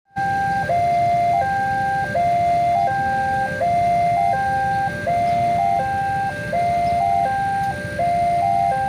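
Electronic level-crossing warning alarm sounding a short sequence of stepped electronic tones that repeats about every second and a half, over a low background rumble.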